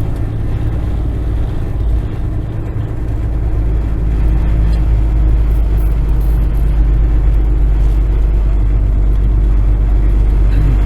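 Kenworth semi truck's diesel engine pulling steadily up a steep grade, a continuous low drone that dips briefly about two seconds in and then builds and holds.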